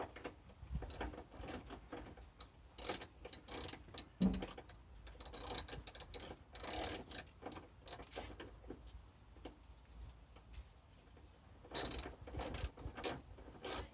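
Socket ratchet clicking in quick runs as screws are driven back in, with a pause near the end before a last run of clicks. A single knock about four seconds in is the loudest sound.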